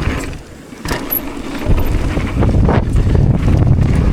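Strong gusting wind buffeting an action-camera microphone during a mountain-bike ride, a deep rumbling roar that dips briefly under a second in and comes back harder from nearly two seconds in, with a few short clicks from the bike.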